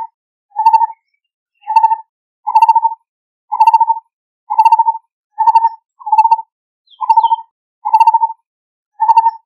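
Lineated barbet calling: a loud, low, purring note repeated about once a second, each note a rapid run of pulses on one pitch.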